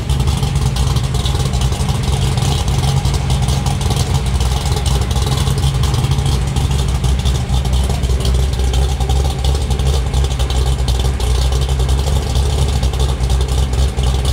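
1970 Chevrolet El Camino SS's 496 big-block V8 idling steadily. It has a mechanical flat-tappet cam and exhausts through headers, a Dynomax Ultra-Flo muffler and 3-inch pipes.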